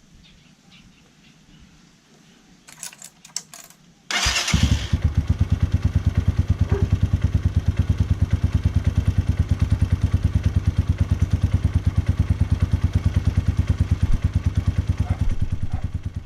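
Rusi DL150 underbone motorcycle's single-cylinder engine: a few short clicks, then it starts about four seconds in and runs with steady, even, rapid exhaust pulses, fading out at the very end.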